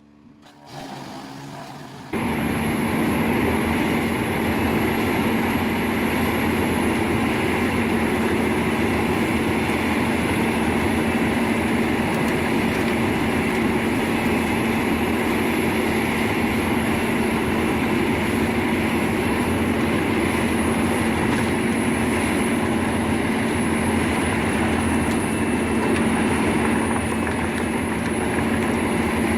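Wood chipper running steadily: a constant machine drone with a steady low hum and a thin high whine. It starts suddenly about two seconds in.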